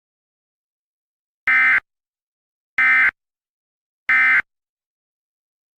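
Emergency Alert System end-of-message (EOM) tones: three short bursts of SAME digital data about a second and a quarter apart, the signal that the alert message is over.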